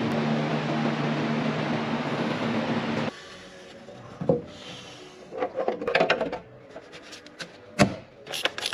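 An engine running steadily at a constant speed cuts off abruptly about three seconds in. Scattered knocks and clatters of tools and parts being handled follow.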